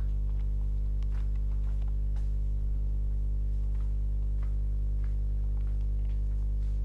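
Steady electrical mains hum: a low buzz with many overtones that never changes, with a few faint ticks scattered through it.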